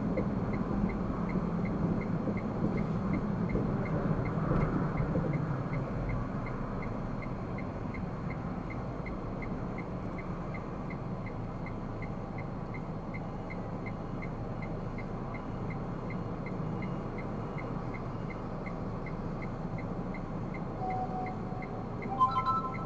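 Steady road and engine noise of a car driving, heard from inside the cabin, with a faint regular tick about twice a second. Near the end a short chime of a few stacked tones sounds.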